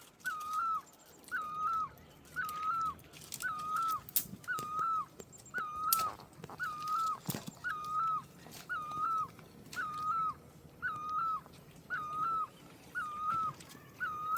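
An animal calling over and over: a short, whining call at the same pitch each time, repeated steadily about five times every four seconds.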